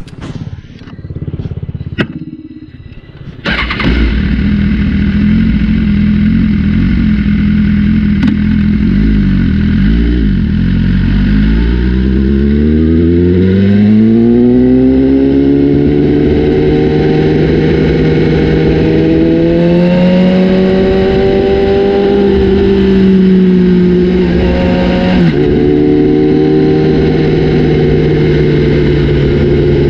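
BMW S1000RR inline-four motorcycle engine with an aftermarket Austin Racing exhaust, firing up about three and a half seconds in and then running loud at idle. From about eleven seconds in the revs climb smoothly over several seconds and hold higher, then drop a step near the end.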